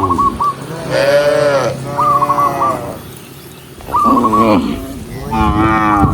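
Cattle mooing: four calls in a row, each under a second long and fairly high-pitched, sliding down in pitch.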